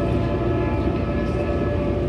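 Commuter train running along the track, heard from inside the passenger car: a steady low rumble with a constant hum over it.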